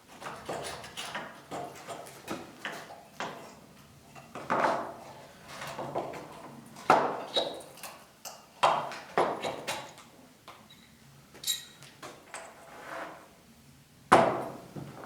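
Irregular knocks and clatters of hard objects being handled and set down, some with a short metallic ring; the loudest knock comes near the end.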